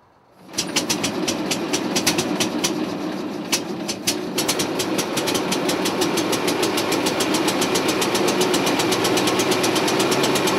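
Brass-era Metz automobile's engine running with a rapid, even clatter of firing beats. It comes in suddenly about half a second in, and its beat is ragged for the first few seconds before settling into a steady rhythm.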